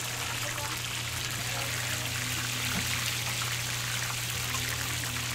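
Food sizzling in hot oil or on a hot griddle, a steady dense crackle, over a steady low hum.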